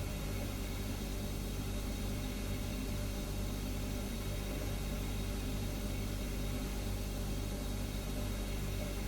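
Refrigerator compressor humming steadily, a low hum with several steady tones over an even hiss.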